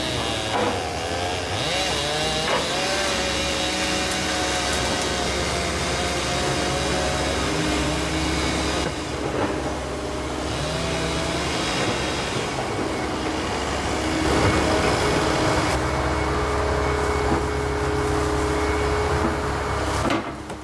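Volvo ECR145EL excavator working, its diesel engine running steadily under load with a whining tone that wavers and bends in pitch. The sound cuts off sharply near the end.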